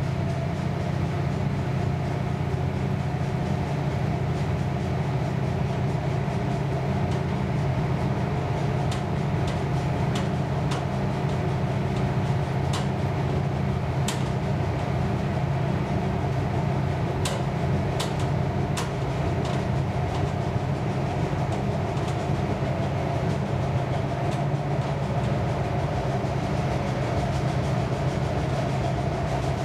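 Passenger train running, heard from inside the carriage: a steady low rumble and hum, with a scatter of sharp clicks in the middle stretch.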